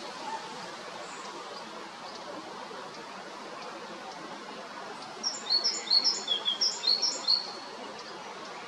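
Male great tit singing a short run of repeated high two-note phrases, about two seconds long, starting about five seconds in, over a steady background hiss.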